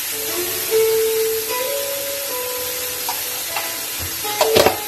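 Chicken sizzling as it fries in a steel wok, with a short clatter near the end.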